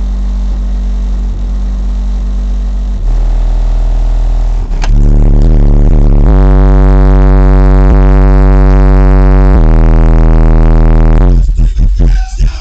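Deep bass played very loud through a car subwoofer in a 95-litre box tuned to 35 Hz, driven by a Sinuslive SLA-1500V2 amplifier. Long, low notes hold for seconds at a time and step in pitch, with the recording pinned at full level; near the end the sound stutters and breaks up briefly.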